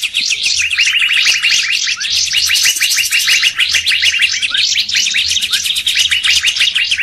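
Dense, continuous chorus of songbirds from a bird-lure recording: many rapid, overlapping chirps and short whistled slurs, several birds calling at once.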